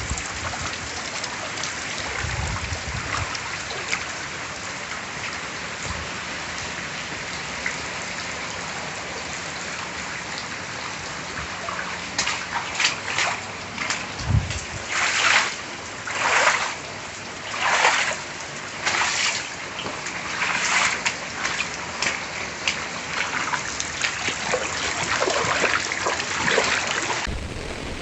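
Rain and running water as a steady rush. From about halfway through, a run of louder splashing surges comes roughly every second or so, with one short low thump among them.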